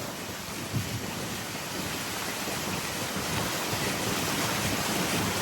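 Steady rushing noise of a moving boat ride: wind buffeting the microphone mixed with water rushing past the boat, growing slightly louder.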